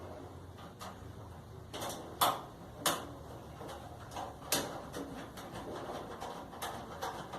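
Scattered sharp clicks and knocks of dryer parts and tools being handled during reassembly, the loudest two about two and three seconds in.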